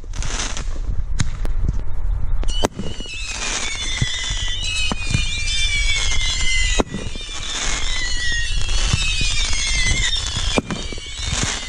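Consumer fireworks going off: a couple of sharp bangs in the first few seconds, then many overlapping whistles that slowly fall in pitch, mixed with crackling pops.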